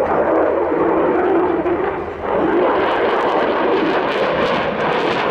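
Turkish Air Force F-16 fighter jet flying a display pass, its engine a loud steady rushing noise that dips briefly about two seconds in and then comes back.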